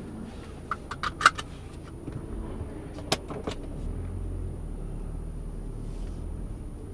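Mk5 Golf GTI's turbocharged four-cylinder engine heard from inside the cabin, a low steady rumble that grows a little louder about halfway through as the car begins to pull away. A few sharp clicks and rattles come in the first half, the loudest just over a second in.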